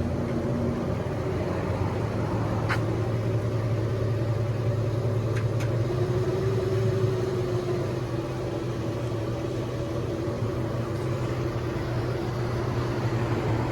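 Vehicle engine running steadily at low revs, a constant low hum, with two faint ticks a few seconds apart.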